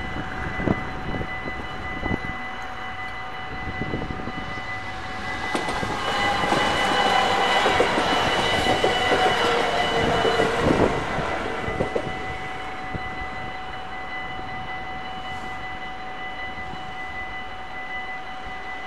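An NS Sprinter electric train passes over a level crossing. It grows louder from about five seconds in, with wheel clatter and a whine that falls in pitch, is loudest for a few seconds, then fades after about twelve seconds. The crossing's warning bells ring steadily throughout.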